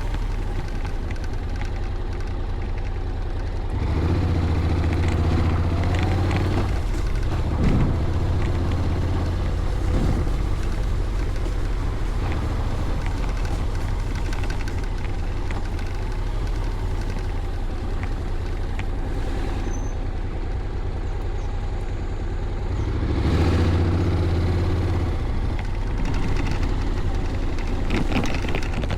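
Honda Forza 750 maxi-scooter's parallel-twin engine running under way, with wind rushing past; the engine note swells and rises under acceleration about four seconds in and again later on.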